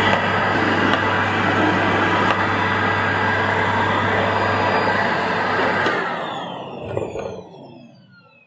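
Panasonic MC-CJ911 vacuum cleaner's motor running steadily, then switched off about six seconds in and spinning down with a falling whine. A short knock comes during the spin-down.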